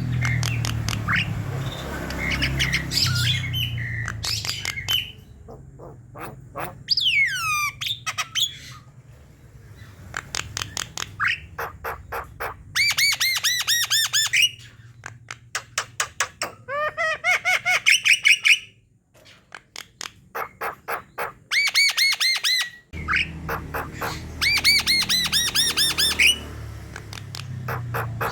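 Javan myna (jalak kebo) singing: fast runs of repeated sharp, squawky notes, broken by short pauses, with a whistle that slides downward and a warbled phrase in between.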